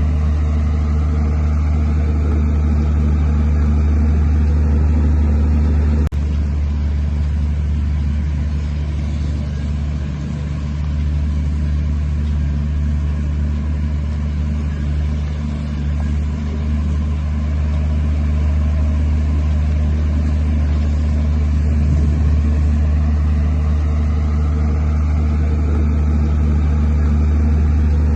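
Heavy diesel engine of earthmoving machinery running steadily with a deep low hum, cut by a brief break about six seconds in.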